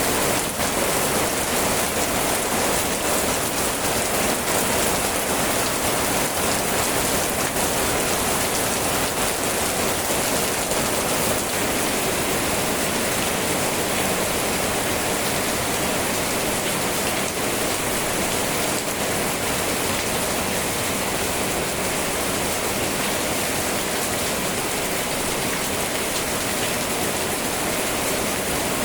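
Steady heavy rain falling, a continuous even hiss of drops on surfaces.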